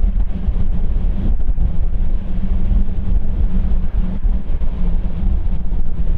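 Wind buffeting the microphone: a loud, steady low rumble with a faint constant hum underneath.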